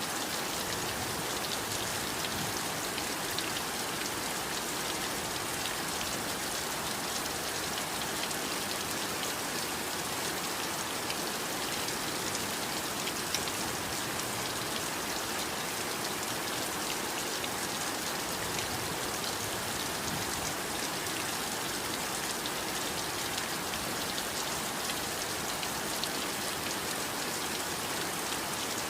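Heavy rain falling steadily: a dense, even hiss with a fine patter of individual drops.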